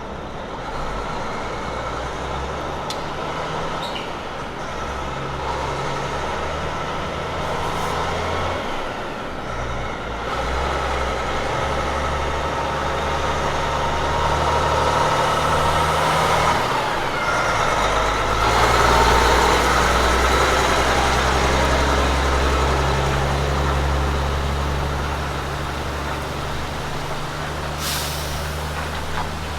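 Road train prime mover's diesel engine working through its gears, the engine note shifting in steps as it changes gear and growing loudest in the middle as the truck goes by. A brief hiss of air near the end.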